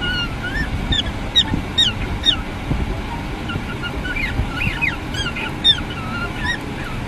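Birds calling: a rapid, irregular series of short calls, each falling in pitch, over steady background noise.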